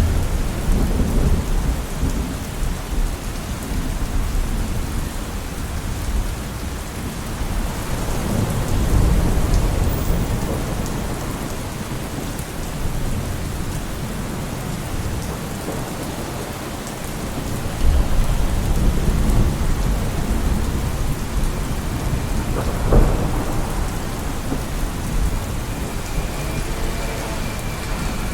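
Steady rain falling, with deep low rumbles that swell and fade several times and a single sharp knock about two-thirds of the way through.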